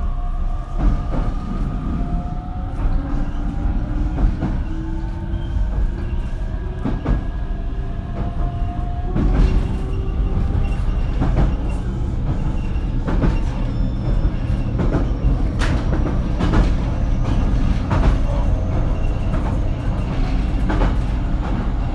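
JR Kyushu BEC819 series electric train running, heard from inside car KuMoHa BEC819-3. Its motor whine rises slowly in pitch over the first ten seconds or so, over a steady low rumble, and the wheels click over rail joints again and again, more often in the second half.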